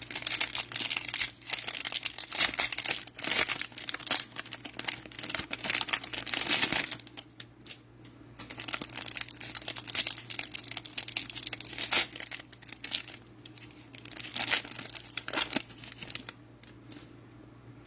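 Cellophane wrapper of a pack of football trading cards crinkling and tearing as the pack is opened. The crackling comes in irregular bursts, with a short lull about halfway and quieter handling near the end.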